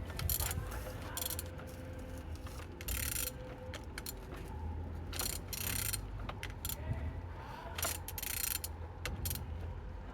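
Used Opel Z18XER 1.8-litre four-cylinder engine being turned over by hand with a wrench on the crankshaft: a series of short mechanical rasping strokes with ratchet-like clicks, several seconds apart. The engine turns freely.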